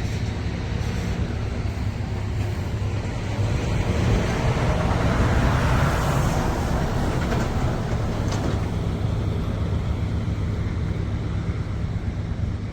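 Combine harvester engine running steadily with a low hum, swelling louder for a few seconds around the middle.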